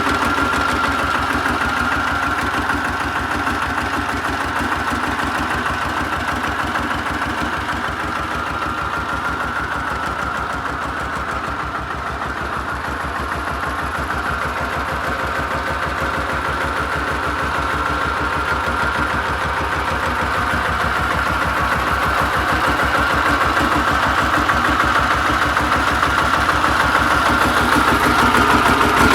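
Goldoni 233 4×4 mini tractor engine running steadily at idle, with an even low firing beat and a steady whine over it, growing a little louder near the end.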